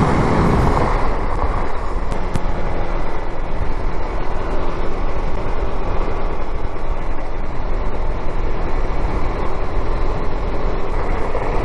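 A car driving along: steady road and engine noise with no change in speed.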